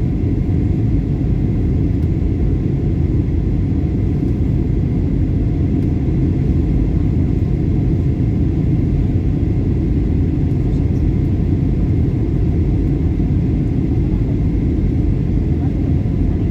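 Steady low rumble of an airliner's jet engines and airflow, heard inside the passenger cabin in flight, with a faint steady high tone above it.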